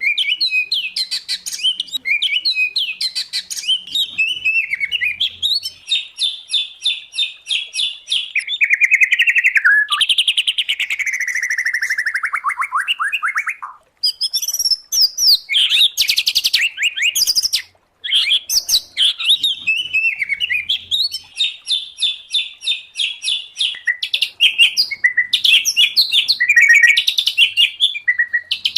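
Songbirds singing loudly and without pause, a mixed recording of white-rumped shama, oriental magpie-robin and greater green leafbird song. Fast, varied phrases of repeated notes and trills, with a long falling trill about ten seconds in. The song breaks off twice for a moment around the middle.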